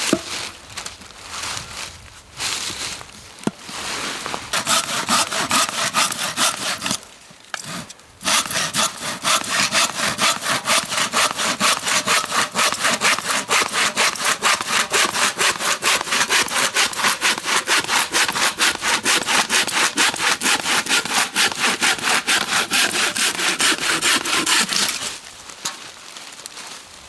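Hand saw cutting through wood in fast, even back-and-forth strokes, a few a second, with a short break about seven seconds in. It stops a couple of seconds before the end.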